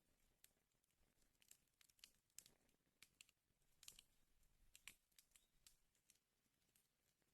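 Wood fire crackling faintly: irregular sharp snaps and pops from burning firewood, a few louder ones in the middle.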